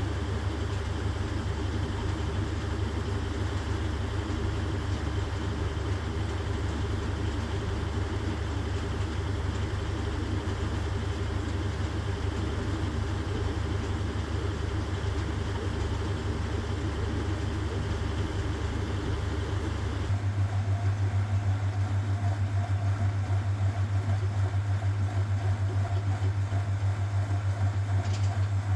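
1969 Zanker VA520 washing machine running steadily. About two-thirds of the way through, its sound changes abruptly to a stronger, pulsing low hum with a higher tone added, as the machine shifts into a different stage of its cycle.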